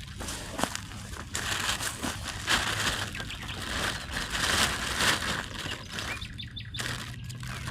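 Rustling and crackling, loudest from about a second and a half in until about five seconds in.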